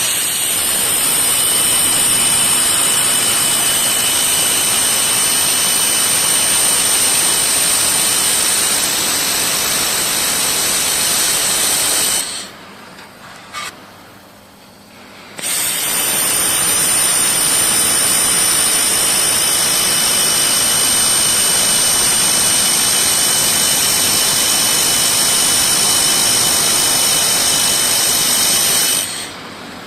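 Handheld fiber laser welder running on stainless steel: a loud, steady hiss with a thin high whine over it. It cuts out for about three seconds near the middle, with a brief click in the pause, then runs again and stops just before the end.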